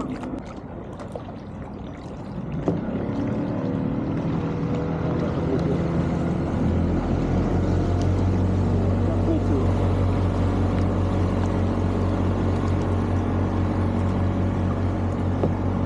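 A boat engine running on the river, growing louder over the first few seconds and then holding a steady low drone.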